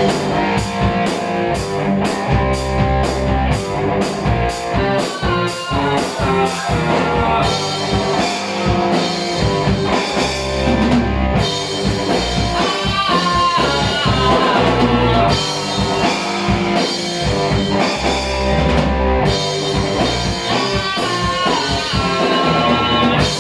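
Heavy metal band playing live: distorted electric guitars, bass and drum kit, with steady cymbal strikes at first and a lead guitar line bending notes in the middle.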